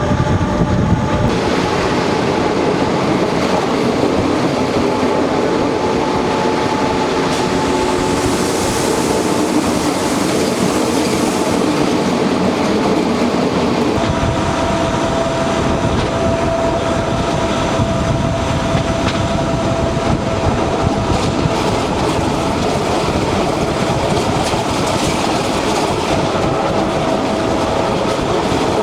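Train running along the track, with a steady clatter of wheels over rail joints and a steady whine. About halfway through the sound shifts: the deep rumble grows and the whine settles at a different pitch.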